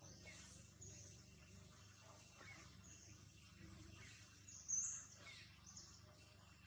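Faint outdoor ambience with birds chirping in short high calls every second or so, one sharper, louder chirp a little past the middle.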